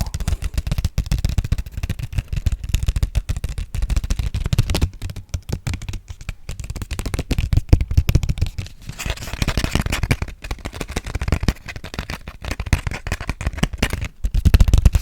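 Fast, aggressive ASMR tapping and scratching close to the microphone: a dense, unbroken run of quick, thuddy taps, with a short stretch of scratchy rubbing about nine seconds in.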